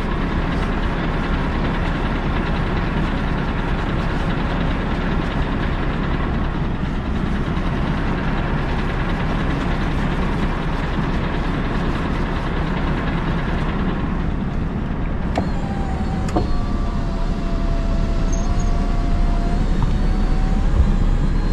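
Scania R580's V8 diesel idling steadily, a low even hum. A couple of light clicks and a faint wavering whine come in over it in the last few seconds.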